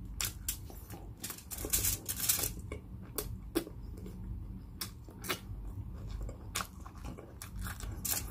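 Close-miked chewing of a mouthful of crispy pata (deep-fried pork leg): irregular sharp crackles and wet mouth clicks, several a second.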